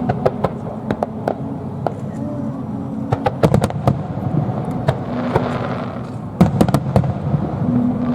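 Aerial fireworks bursting in quick succession, with many sharp cracks and crackles. There is a dense cluster of reports about three and a half seconds in and another after about six seconds, with a hissing wash between them.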